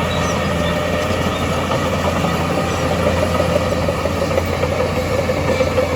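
Heavy earthmoving machinery's diesel engine running steadily, with a wavering higher tone growing louder in the second half.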